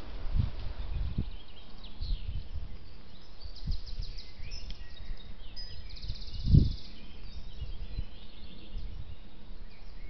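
Wild birds singing, with quick rattling trills about four and six seconds in, over several dull low thumps, the loudest about six and a half seconds in.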